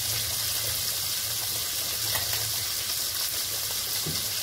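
Hot oil sizzling steadily in a kadai on the stove, an even high hiss, with a single sharp click near the end.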